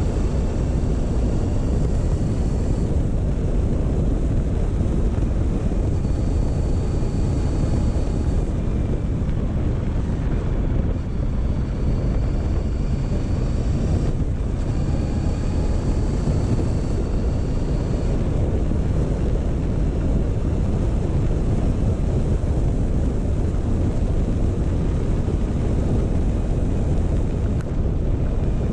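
Motorcycle riding at a slow, steady pace: a continuous engine note mixed with wind rush on the microphone. A faint high whine comes and goes a few times.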